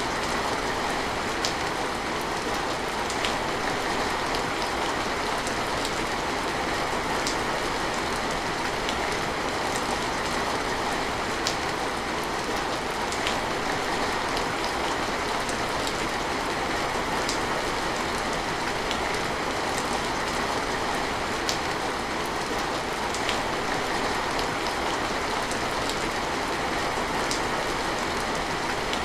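Steady rain: an even, unbroken hiss with sharper drop ticks scattered through it.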